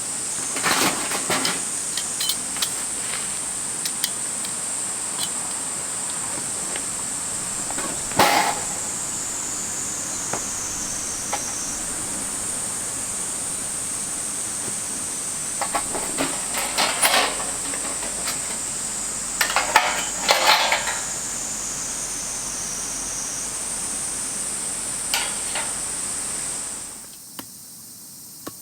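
Insects shrilling in a steady high-pitched chorus, with scattered clicks and knocks of camp gear being handled. Everything cuts off abruptly near the end.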